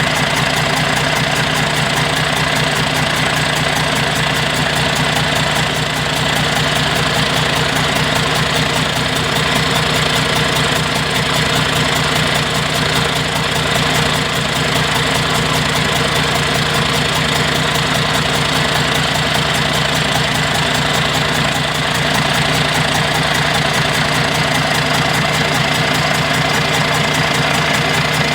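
Engine labelled the '460', running steadily at one even speed on a test run, with no revving or change in pace.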